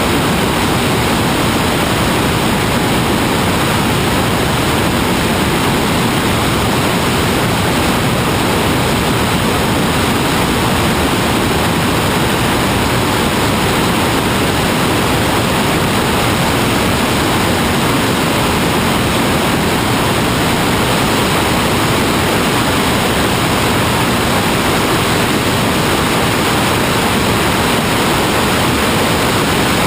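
A steady, unchanging rushing noise, even in level throughout, with no tones, knocks or changes.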